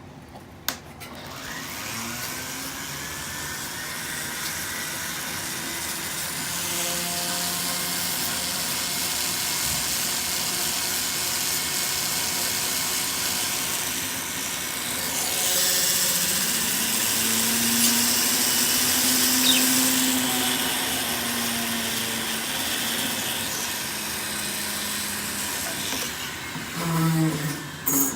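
Small motorized rotary grinding tool running steadily, of the kind an avian vet uses to file down a budgie's nails and beak. It spins up about a second in and winds down near the end.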